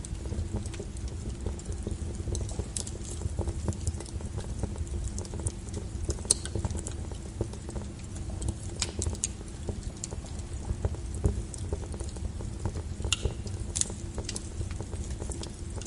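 Wood fire burning with a steady low rumble and frequent irregular crackles and sharp pops of burning logs.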